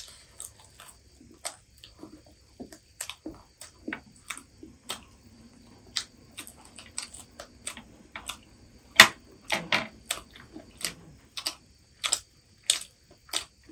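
Chewing and crunching of crispy fried chicken lollipops: an irregular string of sharp crackles and clicks, the loudest about nine seconds in.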